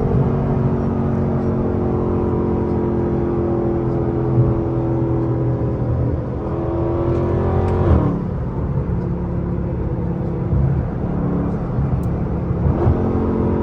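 Dodge 392 HEMI V8 (6.4-litre) running under way. Its pitch climbs for a couple of seconds, drops sharply about eight seconds in, holds steady, then rises again near the end.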